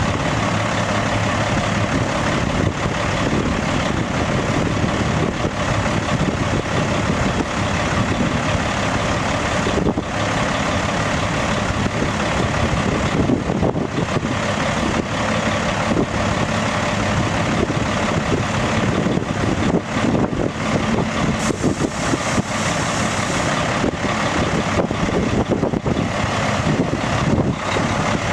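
1998 Freightliner dump truck's Caterpillar diesel engine running steadily.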